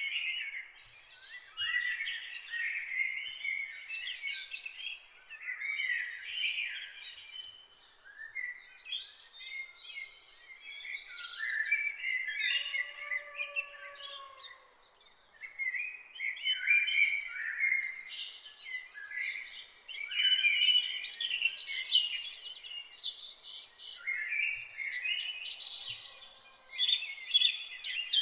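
Dawn chorus of several songbirds, with overlapping chirps, trills and short song phrases throughout. About halfway through, a lower, drawn-out call sounds under them.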